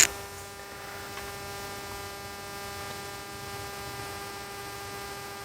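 Steady electrical mains hum, a constant buzz of fixed tones that holds unchanged throughout.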